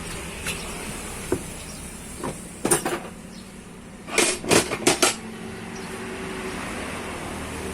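Scattered sharp metallic clanks and knocks, as of metal tools or parts being handled and struck: a few single hits, then a quick run of four or five about four seconds in, over a faint steady background.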